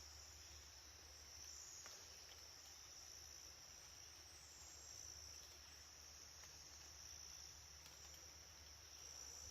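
Faint, steady chorus of insects, a continuous high-pitched trill, with a few faint ticks.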